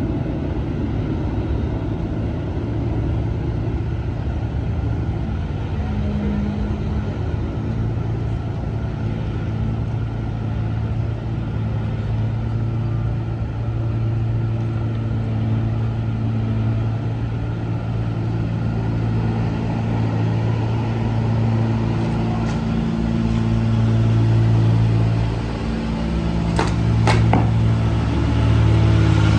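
Liebherr T 264 mining dump truck's heavy engine running steadily with a deep hum, briefly easing off and then rising again near the end. Two or three sharp clicks near the end.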